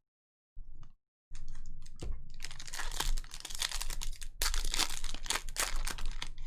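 Trading card pack wrapper being crinkled and torn open by hand: a brief rustle, then a long stretch of dense crackling.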